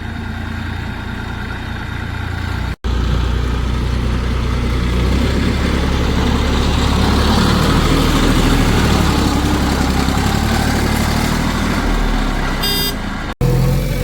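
Heavy diesel engines of a backhoe loader and tractors running steadily, louder after a sudden cut about three seconds in; the sound breaks off again at a second cut near the end.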